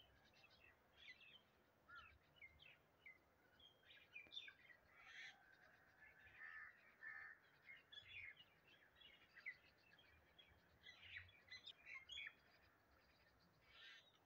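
Faint chirping of birds: many short, high calls coming in quick runs throughout.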